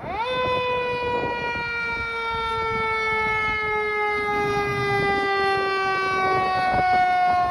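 Fire truck siren starting suddenly, sweeping up to full pitch almost at once, then sliding slowly downward in one long falling wail.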